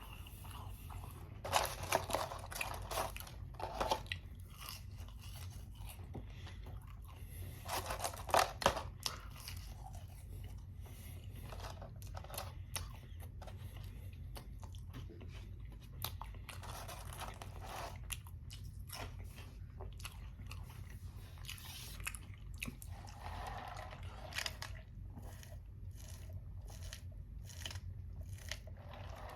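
Close-miked chewing of Wendy's french fries, with irregular clusters of crunchy bites and mouth sounds, loudest a couple of seconds in and again around eight seconds. A steady low hum runs underneath.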